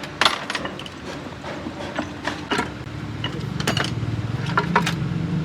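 Sharp metal clinks and knocks of hand tools working on metal parts, irregular, over a steady hum; a low engine rumble grows from about three seconds in.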